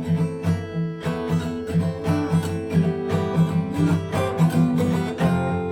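Acoustic guitar strummed in the galop pattern of quick down-up-down strokes, several strums a second, with chord changes along the way.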